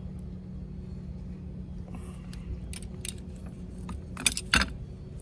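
A few sharp metallic clinks about four seconds in, like small metal tools or parts being handled, over a steady low hum.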